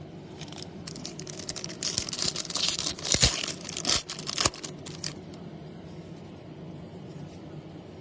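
A foil trading-card pack wrapper being torn open and crinkled, with a few sharp clicks, for about four seconds, then only a low steady background hum.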